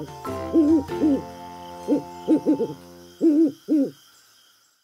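Owl hooting: short hoots in quick runs of two to four.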